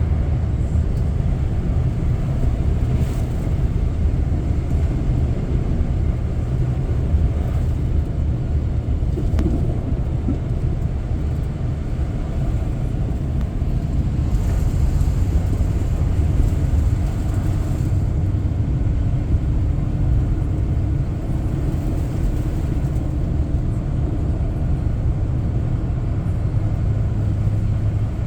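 Steady low road and engine rumble of a car being driven, heard from inside the cabin, with a faint humming tone coming in about halfway through.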